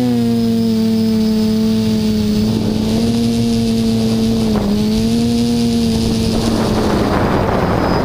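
Hoverthings HT-FPV quadcopter's electric motors and propellers humming steadily, wavering slightly in pitch. About six seconds in, the hum fades under loud wind noise buffeting the microphone.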